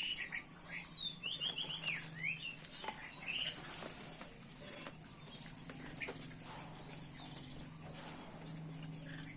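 Small birds chirping in quick, short calls, some rising and some falling, busiest in the first few seconds and then thinning out, over a steady low hum.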